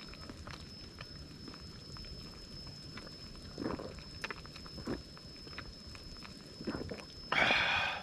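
A person eating hot pot: quiet chewing and mouth clicks, a short slurp a little before halfway and a louder slurp of broth just after seven seconds. A faint steady high whine sits underneath.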